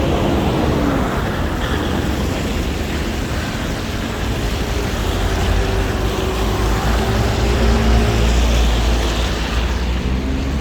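Street traffic: vehicle engines passing with a steady rushing noise and a heavy low rumble.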